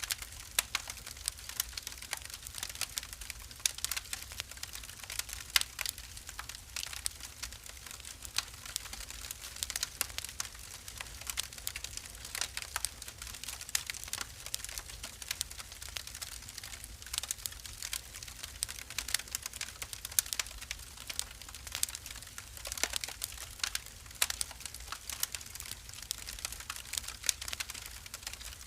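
Wood fire burning in a fireplace, crackling with many irregular sharp pops and snaps over a low steady rumble.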